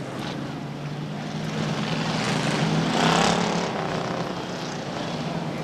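Stock car engines running at slow speed around the track, with one car passing close and loud about three seconds in, then fading away.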